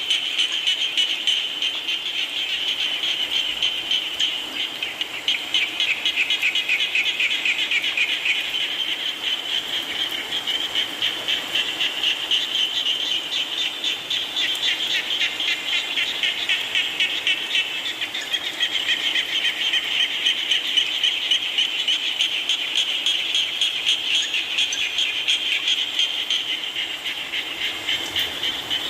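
A chorus of many frogs calling at once, a dense mass of rapid, pulsing trills that swells and eases without a break.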